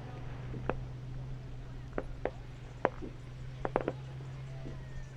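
Distant fireworks popping: about seven sharp, separate bangs, with three in quick succession just under four seconds in, over a steady low hum.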